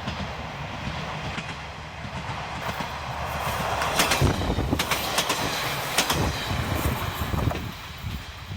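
KiHa 47 diesel railcar passing by, its diesel engine running and its wheels clacking over rail joints. The sound grows louder to a run of sharp clacks in the middle, then falls away near the end.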